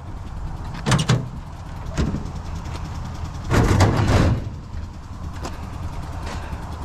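Sheet-steel file cabinet being handled, with a few metal clanks and a longer rattle about three and a half seconds in.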